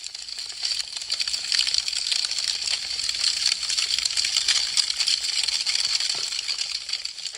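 Wood fire crackling, a dense, rapid run of small snaps and pops from burning branches, swelling in over the first second and fading away near the end.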